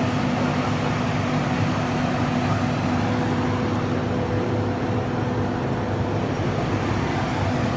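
A steady mechanical hum with a constant rushing noise, holding level throughout with no sudden changes.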